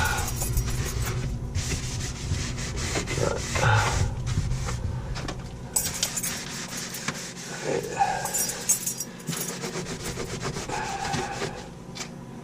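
Scrubbing a dirty fridge surface with soapy water: a continuous rough rubbing made of many quick short strokes, easing off near the end.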